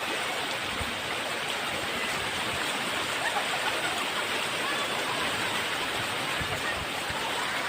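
Floodwater from an overflowing river flowing past in a steady rush, with no let-up.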